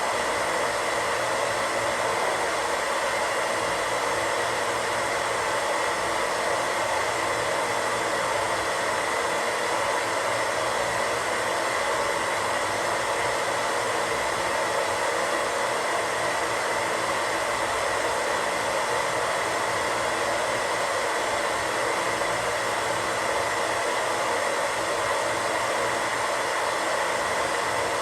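Radio static: a steady hiss of white noise like a radio tuned between stations, unchanging in level, with a slightly brighter band in the upper middle.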